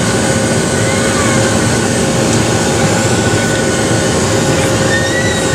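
Steady roar of a Boeing 737-700's CFM56 jet engines and rushing air heard from inside the passenger cabin, with a steady hum tone running through it.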